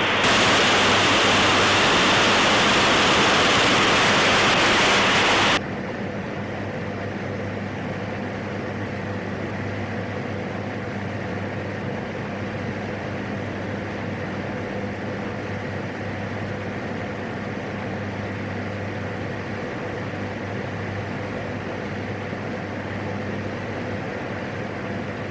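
Steady drone of the PAC 750's turboprop engine and propeller, heard through the cockpit audio feed as a constant low hum. A loud radio hiss lies over it and cuts off suddenly about five seconds in.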